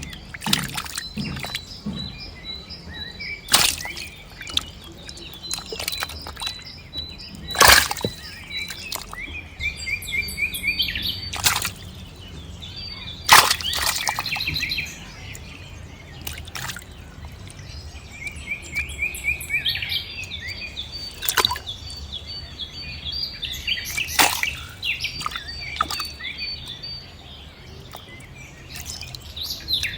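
Birds chirping and trilling over a low steady hum, with a few sharp knocks or splashes scattered through.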